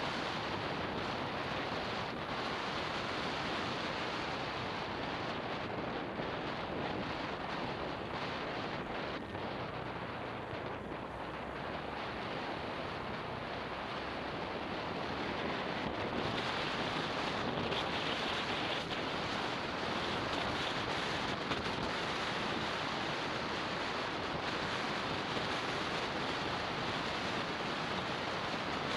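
Steady wind rush on a motorbike-mounted action camera's microphone while riding, mixed with road noise; it gets louder about halfway through.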